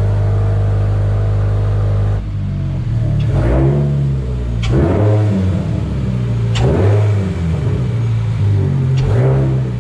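A 2023 Toyota GR86's 2.4-litre flat-four engine idles steadily, then from about two seconds in is blipped several times. Each blip rises and falls in pitch, with an audible intake suck from the newly fitted Velossa Tech ram-air intake every time the throttle opens.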